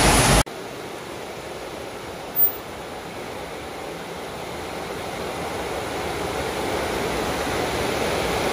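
Torrential rain pouring down, a steady even hiss that slowly grows louder, with one short knock a little over two seconds in. It opens with half a second of louder noise that cuts off abruptly.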